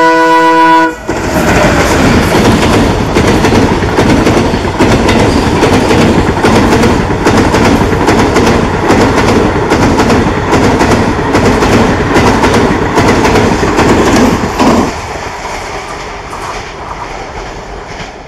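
A WDG 3A diesel locomotive's horn sounds a chord that cuts off about a second in. The express then passes close by, with loud, steady clickety-clack of coach wheels over the rail joints, dropping to a quieter rumble about fifteen seconds in.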